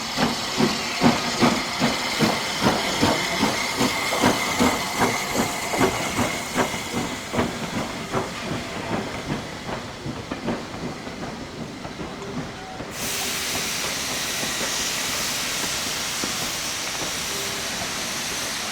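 Steam locomotive working, its exhaust beats coming about two to three a second and slowly fading. About two-thirds of the way in, a steady hiss of steam starts abruptly.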